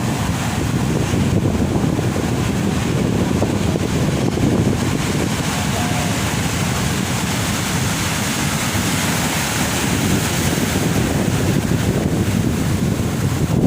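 Heavy ocean surf breaking on the shore in a continuous, steady rush, with wind buffeting the microphone.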